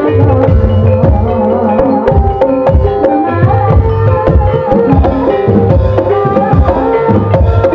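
Live gamelan music accompanying an ebeg dance: hand drums beating a busy rhythm with deep low strokes, over a melody of ringing pitched notes.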